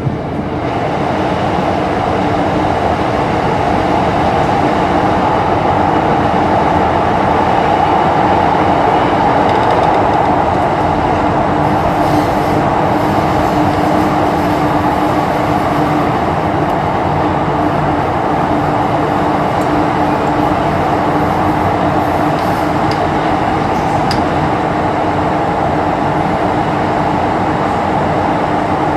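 MTR Disneyland Resort Line M-Train running at speed, heard from inside the carriage: a steady, loud rumble of wheels and running gear with a steady hum, building over the first couple of seconds and then holding.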